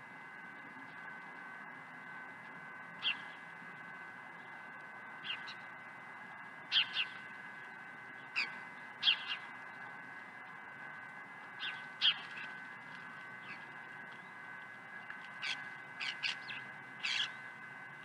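Birds giving short, harsh calls that drop in pitch, about a dozen scattered ones, some in quick pairs and a cluster near the end, over a faint steady high whine.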